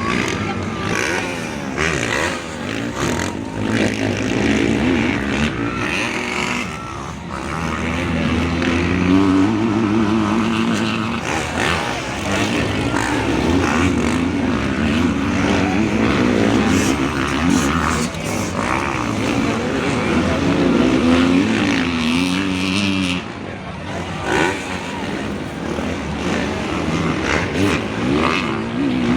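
Motocross dirt-bike engines revving, several at once, their pitch rising and falling over and over as the riders work the throttle.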